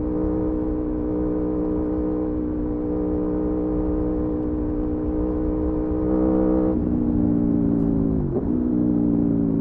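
Aprilia Tuono V4 motorcycle's V4 engine running at steady revs under way, stepping down slightly in pitch near seven seconds, then dipping and recovering briefly about eight seconds in before settling at lower revs.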